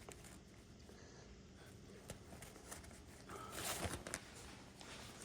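Faint handling noises of a paper vacuum cleaner bag being taken out and handled, with a louder rustle about three and a half seconds in.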